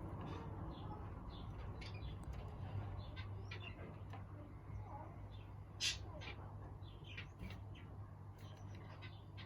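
Aviary birds chirping and calling in short, scattered notes, with one sharper, louder call about six seconds in, over a low steady hum.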